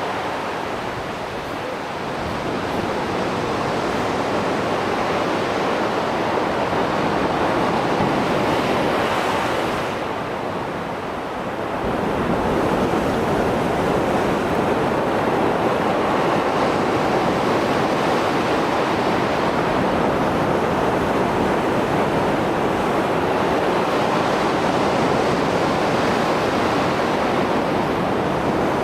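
Rough Mediterranean surf after a storm: waves breaking and washing continuously, dipping briefly twice and then swelling back up.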